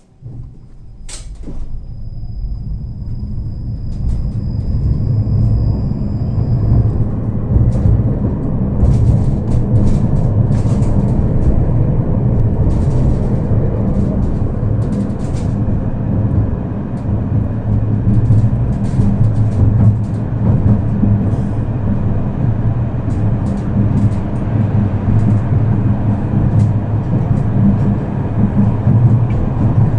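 Tram running on its rails, heard from inside the car: a steady low rumble with rattles and clicks, growing louder over the first few seconds. There is a sharp knock about a second in, and a thin high whine for the first several seconds.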